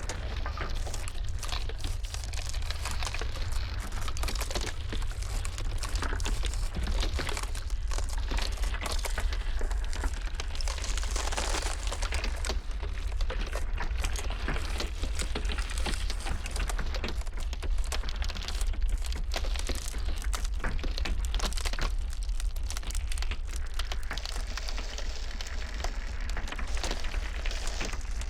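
Ice cracking and crackling in a dense, irregular stream of small pops, over a steady low rumble of blizzard wind.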